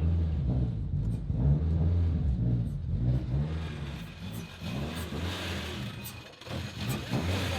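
Turbocharged race car engine running just after being restarted for the first time in about three weeks, its speed rising and falling unevenly. The sound dips briefly near the end, and faint ticks come through in the second half.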